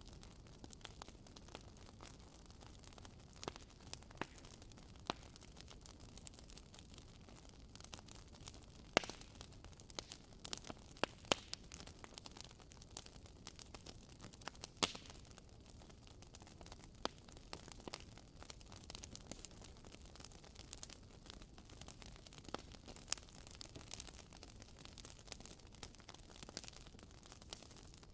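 Wood fire burning in a fireplace: irregular sharp crackles and pops over a soft steady hiss, busiest and loudest between about 9 and 15 seconds in.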